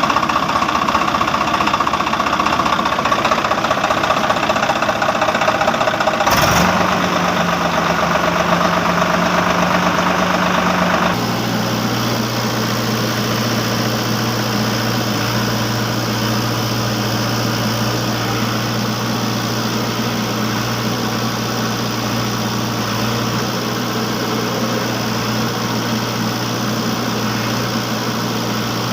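Engine running steadily. It changes abruptly about six seconds in and again about eleven seconds in, settling into a low, even hum.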